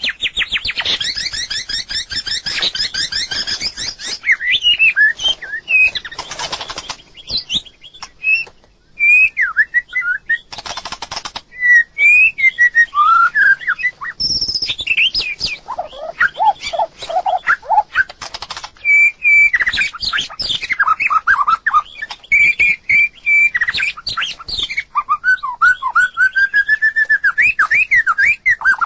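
White-rumped shama singing a long, varied song: a fast rattling trill at the start, then rising and falling whistled phrases mixed with short harsh chatters, and a run of lower notes about halfway through.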